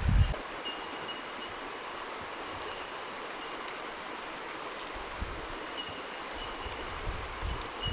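Steady rush of flowing water, with a short low thump right at the start, a faint high tone that comes and goes, and low rumbles in the last few seconds.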